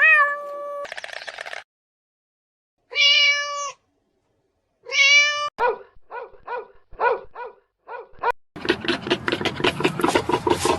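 An animal's high meow-like cries: three longer calls a couple of seconds apart, then a quick run of short ones. Near the end a dense, rhythmic rasping noise takes over.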